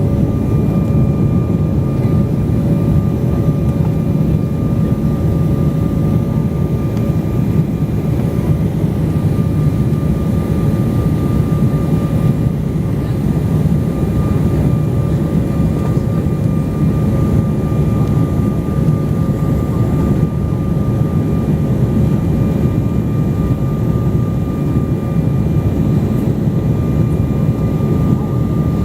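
Airliner cabin noise in flight: a steady, dense low rumble with a faint, even whine on top, unchanging throughout.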